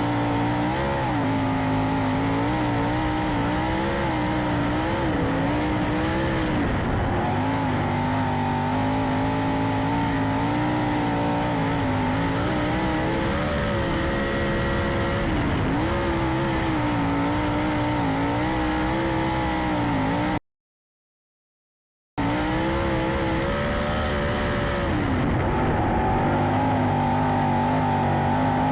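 410 sprint car engine running at racing speed on a dirt track, its pitch rising and falling every few seconds through the laps. The sound cuts out completely for a couple of seconds about twenty seconds in.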